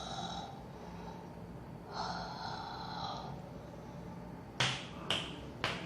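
A person's breath: a long breathy exhale about two seconds in, then three sharp clicks near the end.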